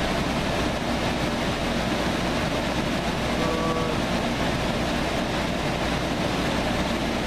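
Movincool Office Pro 18 portable air conditioner running, a steady rush of fan and blowing air with the cooling unit on. A brief faint tone sounds about three and a half seconds in.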